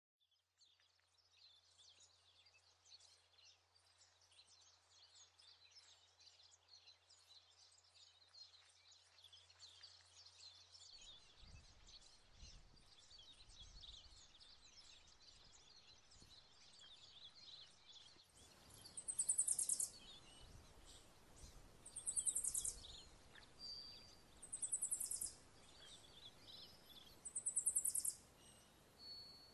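Faint chirping of birds. From about two-thirds of the way in, a louder high trill repeats roughly every three seconds.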